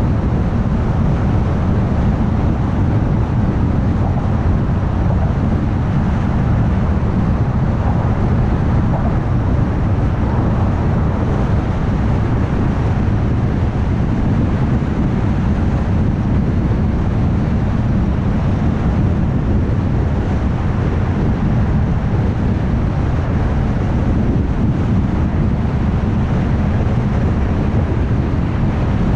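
Steady road noise of a car cruising at highway speed: a constant low rumble from the tyres and engine with wind noise over it, unchanging throughout.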